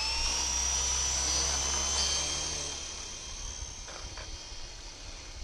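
WLToys V912 RC helicopter's electric motor and rotor spinning up into a high, steady whine, which slowly fades over the second half. A short sharp knock comes right at the end.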